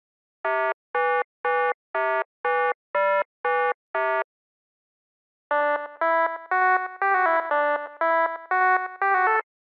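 Electronic tones: eight identical beeps at about two a second, then after a short gap a quick ringtone-like synthesizer melody of a dozen or so notes.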